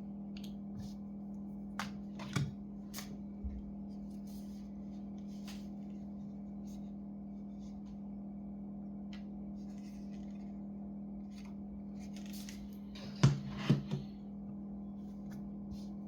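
Scattered light clicks and taps from hands working on an open laptop, with a sharper cluster of clicks about thirteen seconds in, over a steady low hum.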